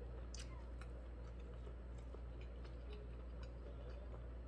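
Faint, irregular wet clicks of a mouth chewing sausage, over a low steady hum.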